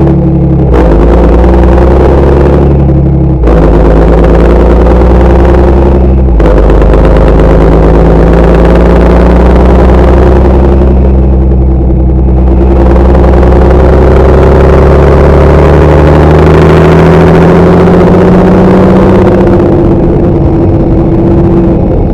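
Large tractor's diesel engine running loud and steady under load. Its note jumps abruptly a few times in the first six seconds, then rises and falls slowly.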